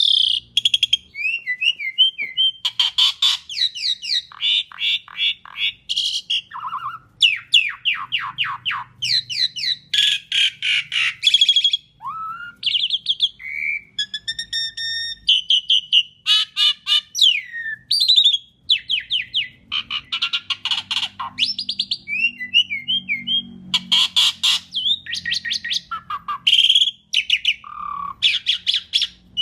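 An Asian pied starling (jalak suren) singing a long, varied song: fast runs of harsh rattling notes mixed with clear whistles and a few sliding calls, with only brief pauses between phrases.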